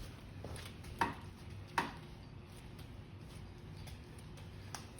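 Two sharp knocks a little under a second apart, from work on a wooden subfloor, then a faint tick near the end.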